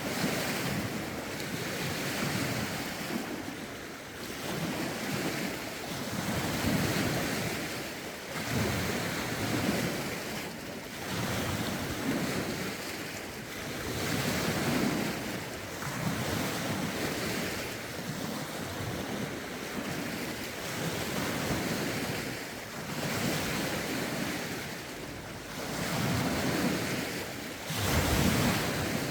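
Lake waves washing ashore in a steady rhythm of swells, with gusty wind buffeting the phone's microphone, adding low rumbles.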